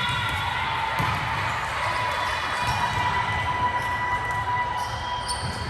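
Volleyball match sounds in a gym: a few sharp ball contacts over steady hall noise, with a faint sustained tone in the background.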